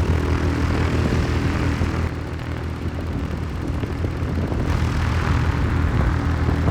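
Propeller aircraft engine droning steadily, a little quieter for a couple of seconds in the middle.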